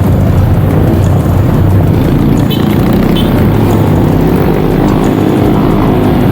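Dirt bike engine running loudly and steadily as the bike is ridden.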